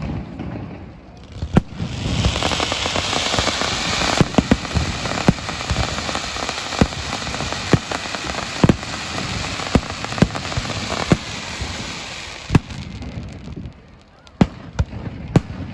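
Fireworks display: a dense crackling hiss starts about a second in and carries on until near the end, with sharp bangs from bursting shells throughout.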